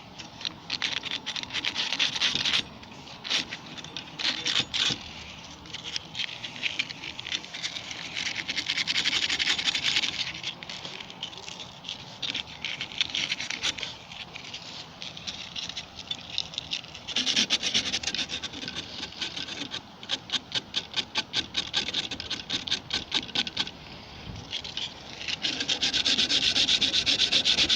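Sandpaper scrubbing the metal thermocouple and pilot parts of a gas water heater to clean them back to bare metal, in bursts of quick back-and-forth strokes with short pauses between.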